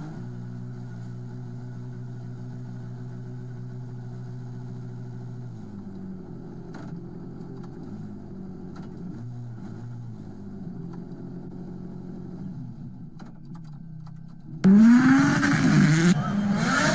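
A steady low engine drone, turning rougher and uneven after about five seconds, then, near the end, a WRC rally car arrives suddenly and loudly, its engine revving hard with the pitch climbing and dropping again and again through gear changes.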